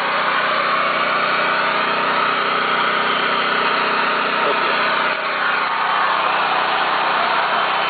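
Small engine running steadily under constant load, with a brief slight dip in level a little after five seconds.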